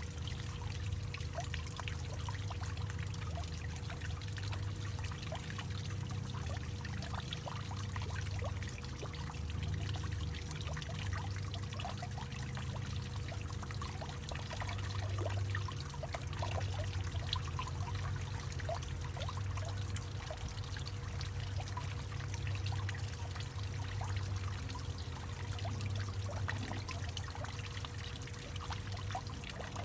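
Water trickling and splashing steadily in a hollowed-out tree, a continuous stream of small patters over a low rumble.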